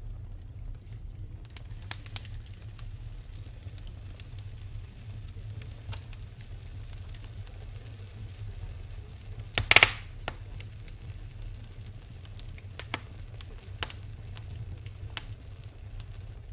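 Wood fire burning in a fireplace: a steady low rumble with scattered crackles and pops, and one loud burst of snapping a little past halfway.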